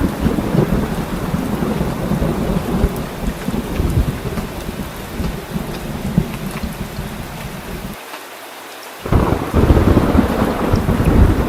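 Heavy rain falling steadily, with deep thunder rumbling throughout. About eight seconds in, the rumble drops away for a second, then comes back loud.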